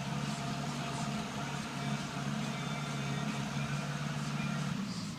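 An engine running steadily with an even drone, its pitch stepping down slightly near the end.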